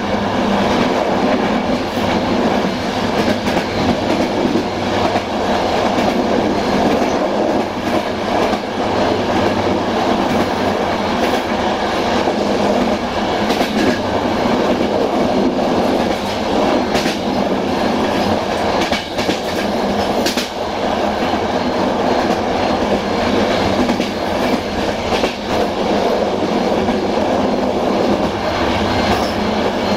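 Passenger train running at speed, heard from on board: a steady rumble of wheels on rail with irregular clicks as the wheels cross rail joints.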